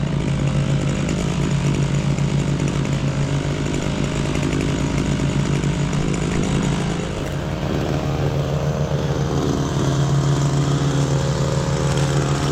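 Small petrol lawn-equipment engine running steadily at working speed, easing off slightly about seven seconds in and then picking up again.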